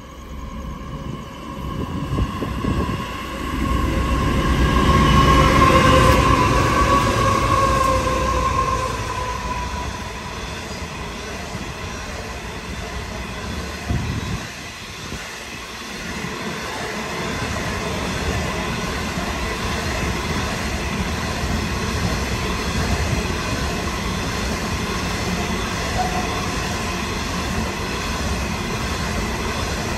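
Diesel-hauled coal train passing close by: loudest about five seconds in, when the front of the train goes by with a high steady tone that sags slightly in pitch as it fades. After that a long string of coal hopper wagons rolls past with a steady rolling noise on the rails.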